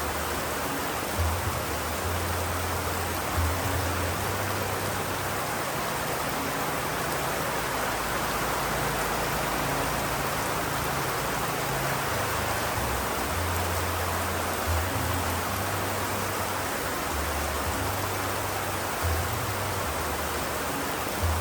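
Steady, even rain hiss with no break, with a low rumble that comes and goes beneath it and a few brief louder knocks.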